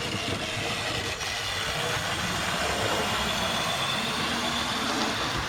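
Wrenn OO gauge 0-6-0 model locomotive running on the track with a steady whir and a faint high motor whine, hauling three coaches up a gradient under load.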